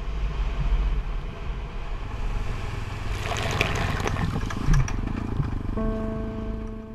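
Motorcycle riding off-road: a steady low engine rumble under wind and road noise, with a louder stretch of hiss and clicks in the middle.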